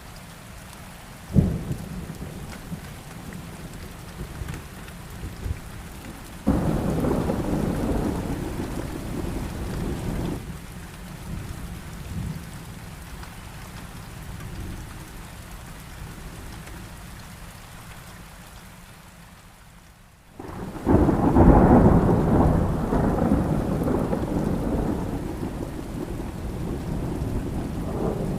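Heavy rain falling steadily, with thunder: a sharp crack about a second in, a rolling rumble a few seconds later, and a louder, longer peal about two-thirds of the way through that slowly fades.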